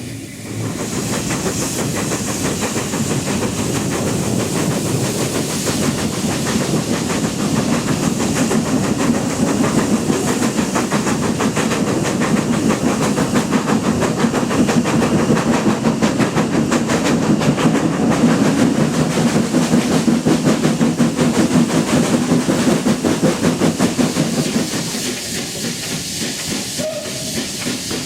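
Steam locomotive working hard, its exhaust beating quickly and evenly over a hiss of steam. It builds in loudness for about twenty seconds, then eases off near the end.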